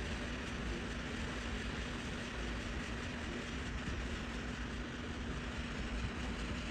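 Heat gun running steadily: a rush of blown air over a constant low hum, heating the board so the leftover solder around the USB port pads softens.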